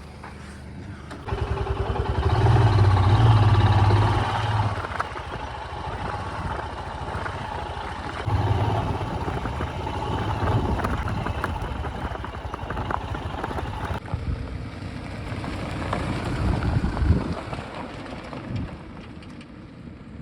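Motorcycle engine starting about a second in and then running. It is loudest for the first few seconds after it catches, then settles into a steady run with some rises in revs.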